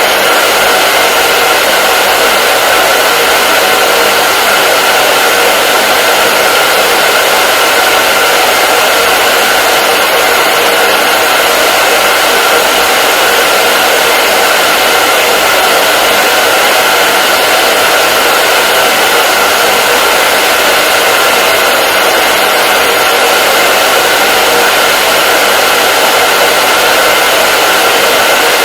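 Hair dryer running steadily: a loud, even rush of air with a constant high hum from its motor and fan.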